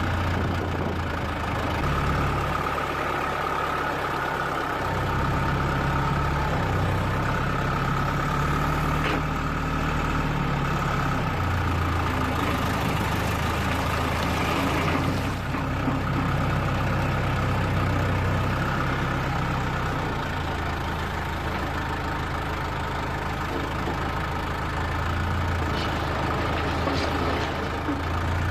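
Diesel engine of heavy work machinery running continuously, its pitch stepping up and down every few seconds as the load or throttle changes.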